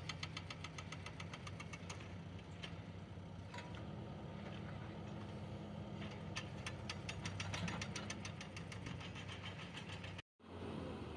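A construction machine's diesel engine running steadily, with rapid regular knocking ticks over it at times. The sound cuts out completely for a moment near the end, then resumes.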